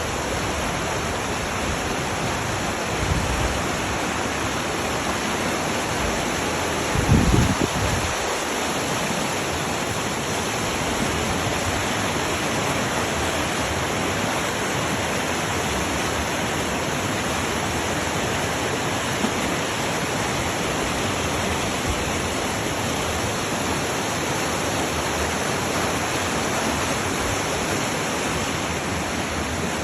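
Steady, even rushing noise of fast-flowing water, with two brief low thumps about 3 and 7 seconds in.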